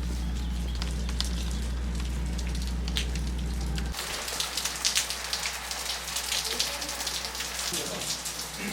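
Rain pattering, with scattered drops ticking over a steady low hum. About four seconds in the sound changes abruptly to a denser, louder patter of close drops.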